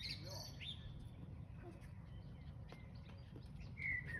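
A songbird singing whistled, gliding phrases: one phrase right at the start and another near the end, with softer chirps and faint ticks between them.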